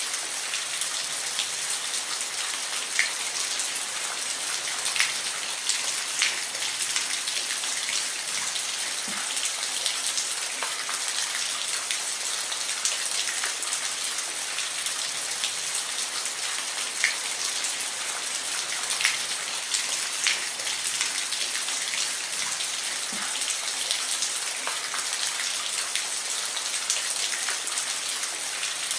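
Steady rainfall: an even hiss of rain, with occasional single drops landing as sharper, distinct ticks.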